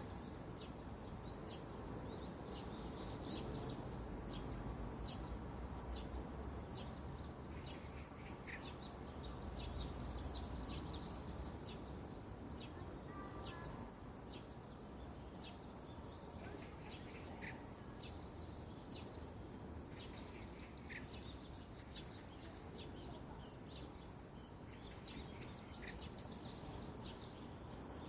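Wild birds chirping at dawn: many short, high chirps repeating every fraction of a second, with a few lower calls in between, over a steady low background hum.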